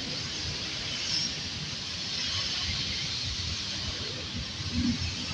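Vintage passenger coaches rolling slowly past, wheels on rails giving a steady low rumble with a hiss.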